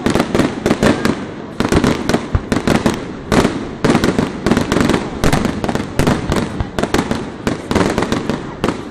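Fireworks display: a dense, near-continuous run of sharp bangs and crackling from bursting shells, many reports a second, with only brief lulls.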